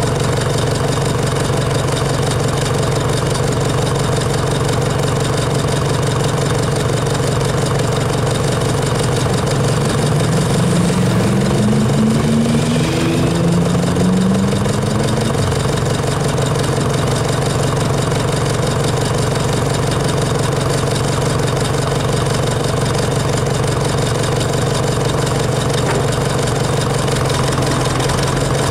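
Tractor engine running steadily at road speed. About halfway through, a second engine note rises in pitch for a few seconds and fades.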